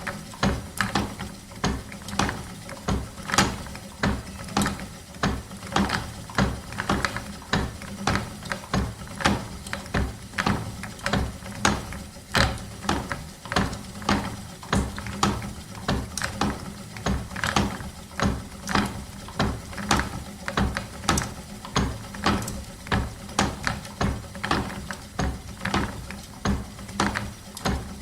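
Old wooden spinning wheel turning steadily, its wooden parts clacking and knocking in an even rhythm of about two knocks a second over a low running rumble.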